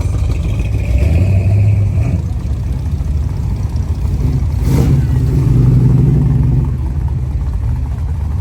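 A car engine running and revving, with one sharp crack about halfway through.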